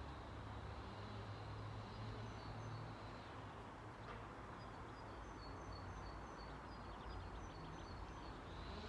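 Quiet outdoor garden ambience: a steady low rumble with faint, distant bird chirps repeating from about two seconds in.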